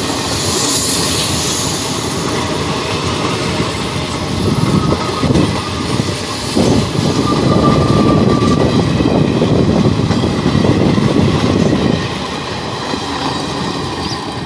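Indian Railways passenger coaches rolling past close by: a continuous rumble and rattle of wheels on rail, louder from about six seconds in. The brake van at the rear of the train passes near the end.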